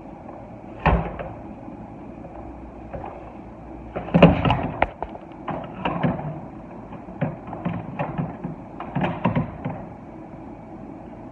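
Knocks and clanks of a steel beer keg being slid off a truck bed and dropped onto a hand truck: one sharp knock about a second in, then a run of irregular bumps and clanks over several seconds, the loudest near the start of that run.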